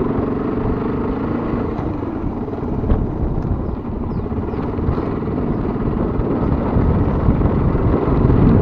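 Motorcycle engine running steadily while riding, under a low rumble of road and wind noise.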